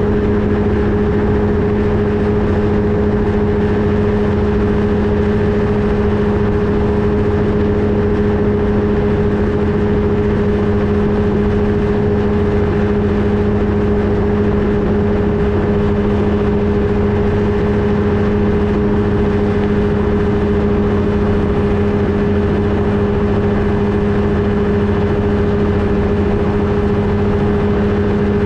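Flightstar II ultralight's engine and propeller running steadily at constant power, a loud unchanging drone with no change in pitch.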